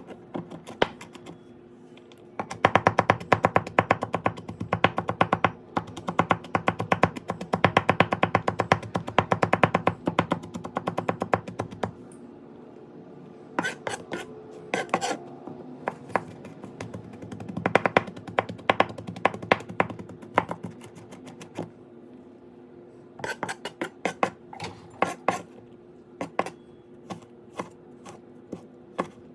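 Kitchen knife chopping fast on a cutting board: a quick, even run of strokes for about ten seconds, then shorter bursts and single chops. A steady low hum runs underneath.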